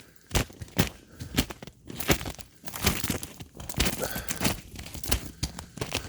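Footsteps crunching on ice-crusted ground after an ice storm, a crisp crunch with each step, about one to two steps a second.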